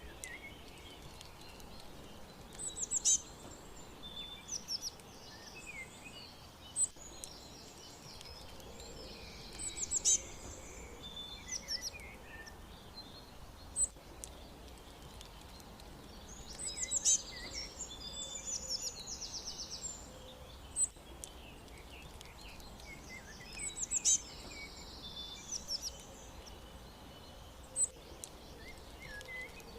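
Several songbirds chirping and trilling, high and quick, in bursts every few seconds, over a faint steady background hiss.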